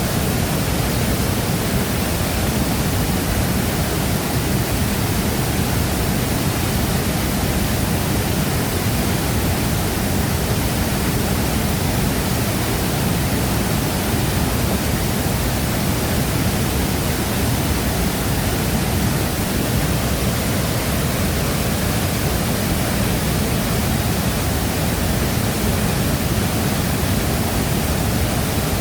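Waterfall crashing into its plunge pool: a loud, steady rushing roar with a deep low rumble and no breaks.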